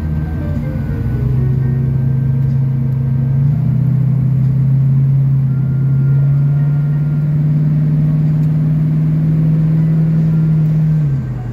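Race car's engine heard from inside the cabin on track, holding a steady drone that steps up in pitch about a third of the way in and drops near the end. Faint music plays underneath.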